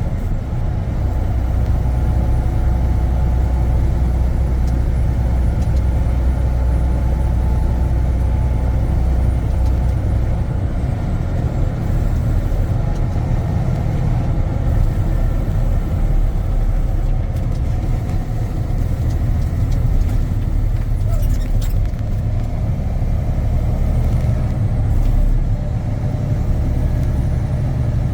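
Steady low drone of a semi-truck's diesel engine and road noise, heard from inside the cab while cruising on the highway.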